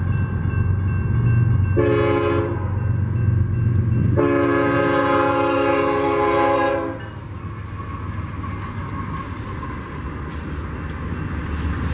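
Diesel freight locomotives pass close by, their engines rumbling loudly, while the lead locomotive's air horn sounds a short blast about two seconds in and then a long blast of about three seconds. After the horn stops, the sound drops to the steady rolling of the following locomotives' wheels on the rails, with a few clicks near the end.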